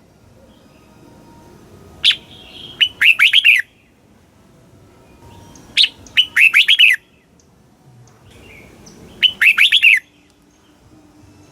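Red-whiskered bulbul singing three short song phrases about three and a half seconds apart. Each phrase is a sharp opening note followed by a quick run of falling whistled notes.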